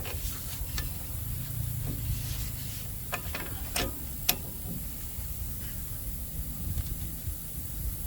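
A handful of sharp clicks and knocks, clustered in the first half, over a steady low rumble.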